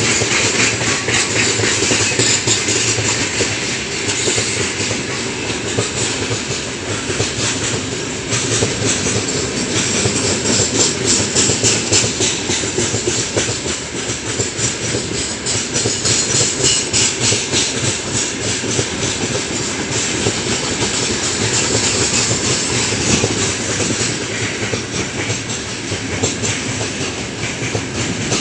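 Freight train of open gondola wagons rolling past at close range: a steady, loud rumble of steel wheels on the rails with a dense run of rapid clicks.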